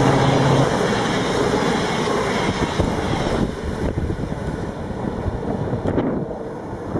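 A train passing through the station: a loud rushing noise that sets in suddenly and is strongest for the first three or so seconds, then eases off, with a few light rattles and clicks near the end.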